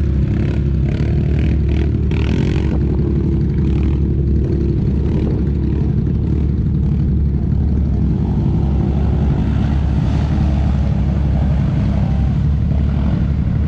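ATV engines running and revving, their pitch rising and falling over a steady low rumble.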